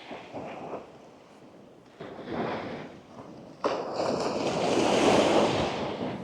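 Small waves breaking and washing up on a sandy beach. A smaller surge comes about two seconds in, then a bigger wave breaks suddenly past the middle and swells to the loudest point before ebbing away near the end.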